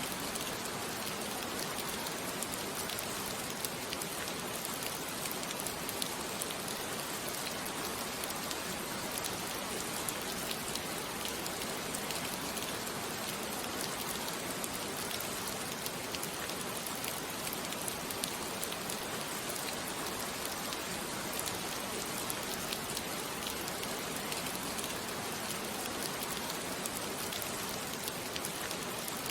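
Steady rain falling, an even hiss of rain with scattered small drop patters.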